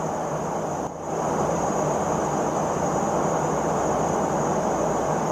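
Steady cabin noise of a P-8 Poseidon jet in flight: an even rushing with a thin high whine above it. The noise dips briefly about a second in, then carries on at the same level.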